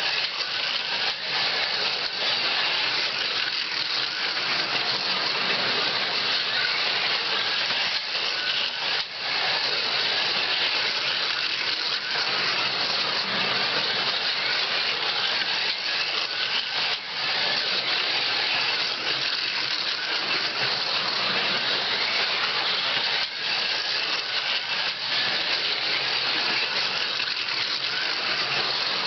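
1/43-scale Carrera Go slot cars running laps on plastic track: a steady whirring buzz of small electric motors and pickups, with a few brief dips along the way.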